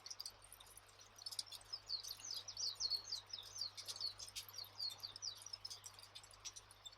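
Campfire crackling with scattered sharp pops, while a bird sings a fast run of short, high, downward chirps through the middle.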